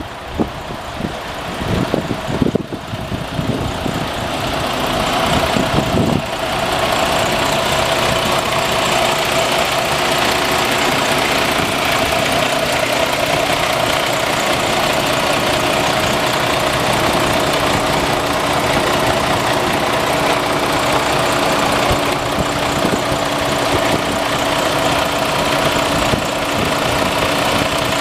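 Diesel engine of a Freightliner Cascadia sleeper truck idling steadily, with a steady whine over the engine noise. A few knocks and thumps come in the first seconds while the sound builds, and it settles into the even idle after about six seconds.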